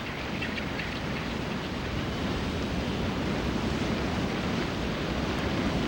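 Steady rushing noise of wind and surf, with no distinct calls standing out.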